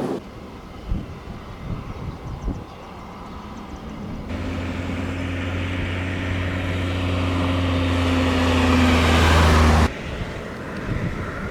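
Wind buffeting the microphone, then, about four seconds in, a jet airliner's engines, a Boeing 787-8 Dreamliner, with a steady low hum growing steadily louder as it draws nearer. The sound stops suddenly well before the end, and the wind returns.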